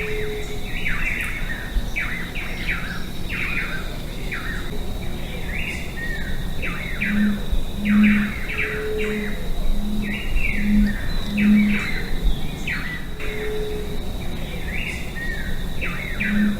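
Several Atlantic Forest birds singing together: a dense run of quick chirping phrases, with a series of low hoots in the middle and a steady high tone running underneath.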